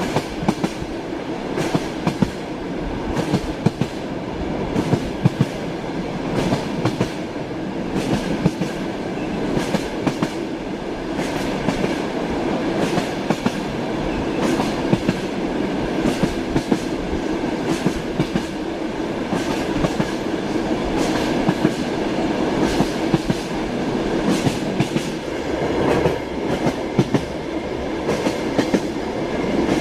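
Passenger train carriage in motion, heard from inside the compartment: a steady rumble, with the wheels clicking and knocking over rail joints many times throughout.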